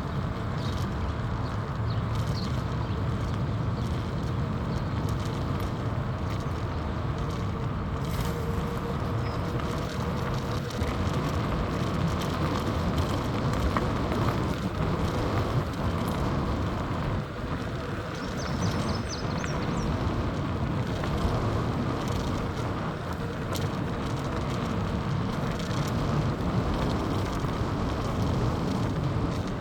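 A bicycle being ridden along a trail: a steady, rushing rumble of wind and rolling tyres.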